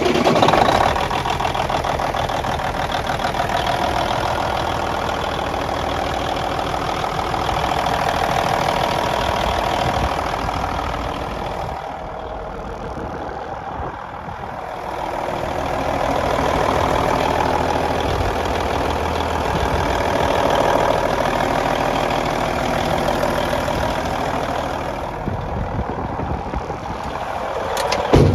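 Diesel engine of a 2001 International 5600i truck running, its level rising and falling in slow swells. A sharp, loud knock comes near the end.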